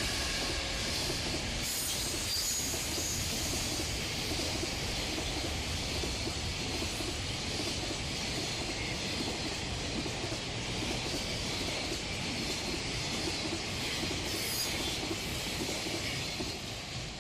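Container freight train rolling past at speed, with a steady rumble of wheels on rail and thin high squeals from the wheels at times; the noise begins to fade near the end.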